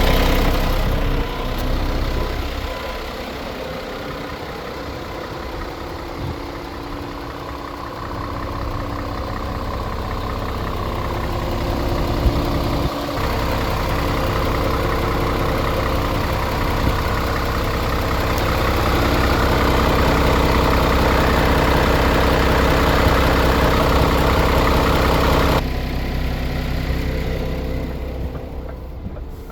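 Scania R500 truck's 13-litre inline-six diesel engine idling steadily. Near the end the higher tones drop away suddenly and the sound turns duller and quieter.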